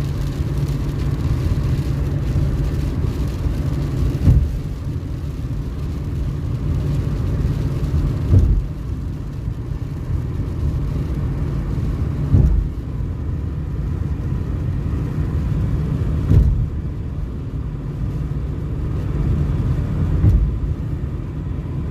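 Car driving along the road: a steady low rumble of engine and road noise, with a brief louder thump about every four seconds.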